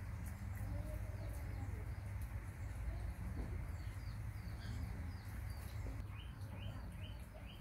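Short, high, falling chirps of small birds, a few scattered at first, then a regular run of about two to three a second near the end, over a steady low hum and faint clicks.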